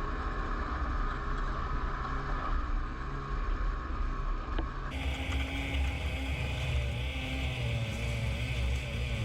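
A vehicle's engine running steadily and muffled, its pitch wavering a little, with a sudden change in tone about five seconds in.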